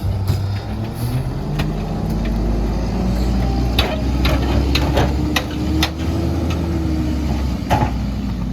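Mack MR rear-loader garbage truck running with its engine raised in a steady drone, a pitched hum that rises slightly and then falls near the end. Repeated sharp metallic clanks and bangs sound over it, thickest in the middle.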